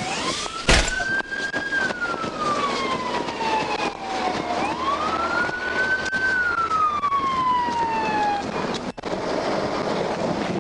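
Police car siren on a slow wail, rising and falling twice over road noise, with a sharp click about a second in; the siren stops about eight and a half seconds in.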